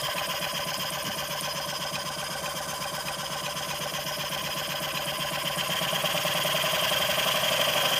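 Home-built brass model mill steam engine (1-inch bore, 1⅝-inch stroke) running fast with a rapid, even beat that rattles the table. It grows louder over the last few seconds as the supply pressure is turned up.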